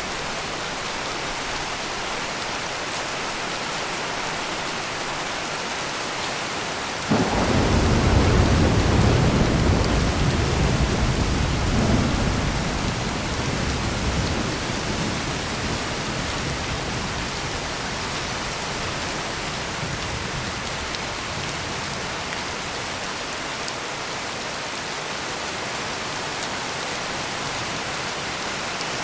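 Steady heavy rain, with a single thunderclap breaking sharply about seven seconds in and rumbling low for about five seconds before fading back under the rain.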